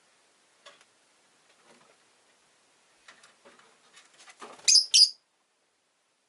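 Rosy-faced lovebird giving two short, loud, high-pitched chirps in quick succession about three-quarters of the way through, after a few seconds of faint scattered clicks and rustles.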